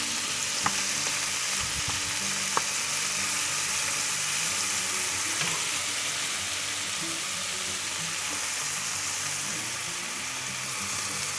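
Chicken frying with a steady sizzle, and two small clicks in the first few seconds.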